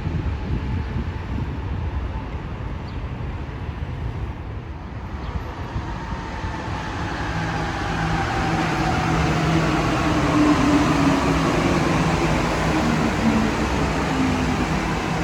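Santiago Metro Line 5 train approaching through the station. A low rumble gives way to a rising motor whine and wheel-on-rail noise that swells from about seven seconds in and is loudest near the end.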